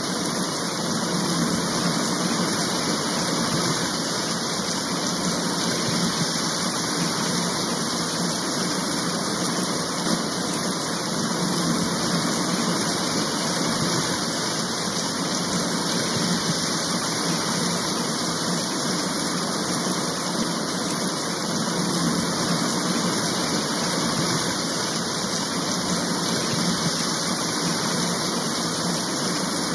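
Steady rain falling: an even hiss that holds at one level throughout, with no separate drops or thunder standing out.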